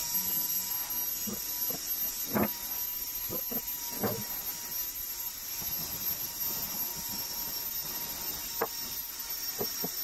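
Rewound brushless hairdryer motor spinning on its ESC under test: a steady high-pitched whine with hiss. A few light clicks and knocks fall at about two, four and nine seconds in.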